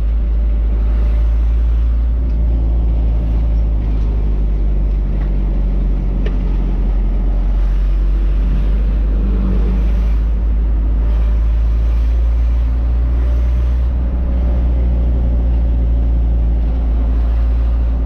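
A truck engine runs steadily under way, with a heavy low road rumble and a drone whose pitch shifts only slightly.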